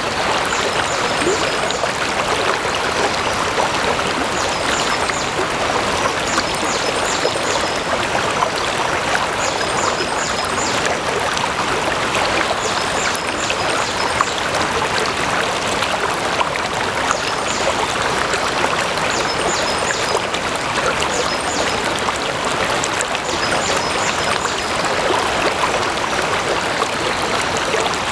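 Stream water running steadily over rocks, an even rush. Short high chirps come in faint groups every two to three seconds.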